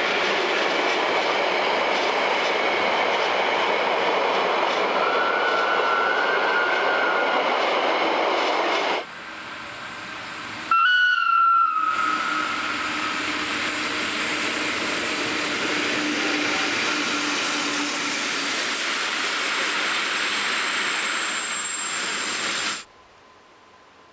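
Rhaetian Railway train running on the track, a loud steady rumble of wheels and rail noise with a faint high squeal in places. The sound drops away about nine seconds in, comes back about two seconds later with a brief loud high tone, then runs steadily before cutting off abruptly near the end.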